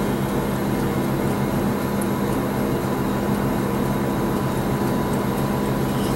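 A steady machine hum with a constant low drone and a faint higher tone, with a few faint ticks near the middle and end.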